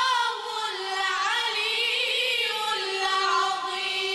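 Choir singing a melodic line, settling into a long held note about halfway through.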